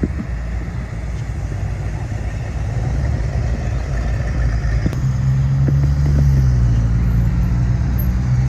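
Car engine running with a low rumble; about five seconds in, a steadier, slightly louder low engine note takes over and holds.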